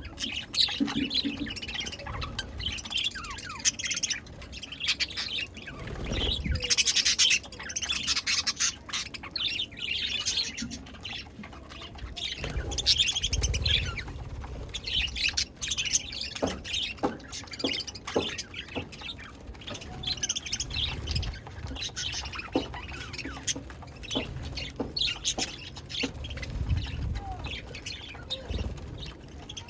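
Budgerigars chirping and chattering continuously, many quick high calls overlapping, with occasional low thumps.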